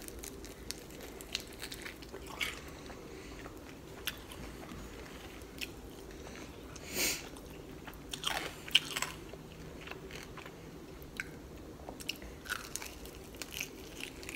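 Close-up chewing and biting into crispy air-fried chicken wings: scattered crunches and wet mouth clicks, with one louder crunch about halfway through.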